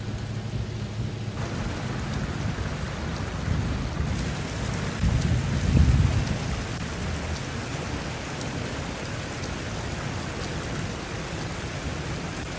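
Steady hiss of heavy rain and rushing floodwater, turning brighter suddenly just over a second in, with a low rumble that swells and fades about halfway through.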